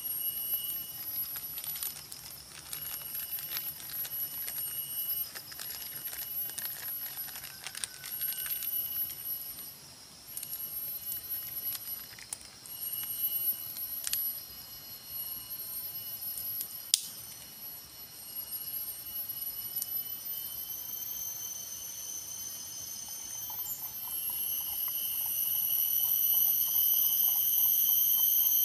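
Insects trilling high and shrill, in pulsing phrases a second or two long, swelling into a louder steady buzz in the last few seconds. Light clicks and crackles in the first several seconds, and one sharp click a little past the middle.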